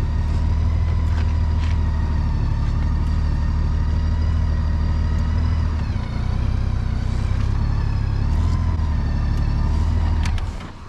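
Motorcycle engine running steadily while riding, with a change in engine note about six seconds in and again about two seconds later. It falls away sharply near the end.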